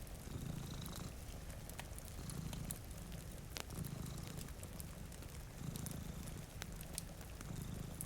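Cat purring close up, the low purr swelling and fading with each breath in pulses a little under a second apart. Scattered sharp pops of a crackling wood fire sit over it.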